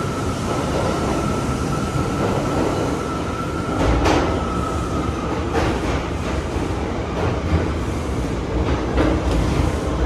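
R179 subway train running between stations: steady rail and wheel noise with a steady high whine through the first half, and sharp clacks over rail joints about four, five and a half, and nine seconds in.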